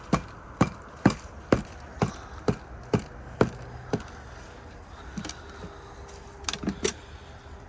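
A steady run of about nine sharp knocks, roughly two a second, then a few scattered knocks near the end.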